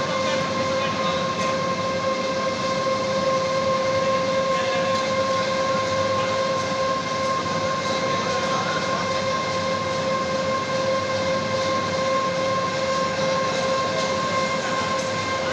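Industrial electric furnace and its control panel running: a steady electrical whine with two strong tones, a lower one and one an octave higher, over a constant noisy machine hum.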